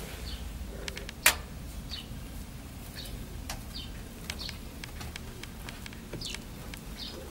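Small birds chirping: short, high, falling notes about once a second over a steady low hum, with one sharp click about a second in.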